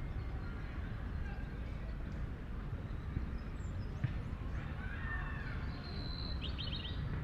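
Outdoor city-park ambience: a steady low rumble of distant traffic with faint far-off voices. Near the end a bird calls, a short high note followed by a quick run of chirps.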